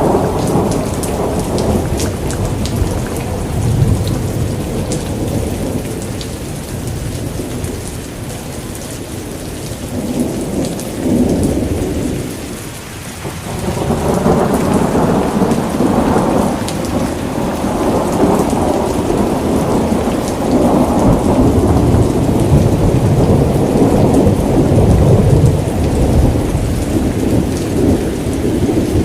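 Steady rain with rolling thunder. The low rumble fades out about halfway through, then builds again and rumbles on to the end.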